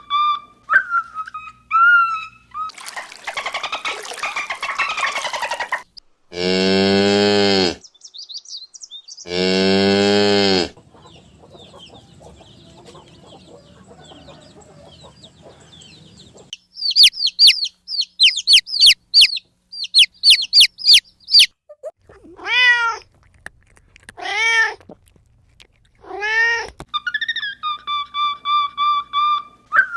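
A run of separate animal calls with short bits of music at the start and end: two long, low calls, then a run of quick high chirps, then three rising-and-falling cat meows.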